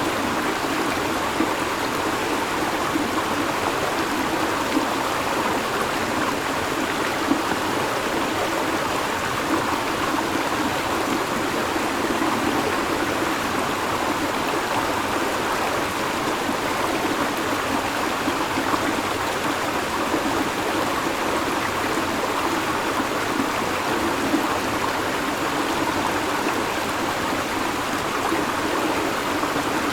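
River water flowing steadily over rocks, an even rushing and babbling that does not change.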